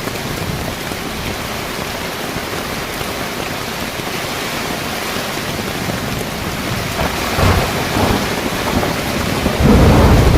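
Heavy rain pouring on a car rooftop tent in a thunderstorm. A low rumble of thunder swells briefly past the middle and grows loud near the end.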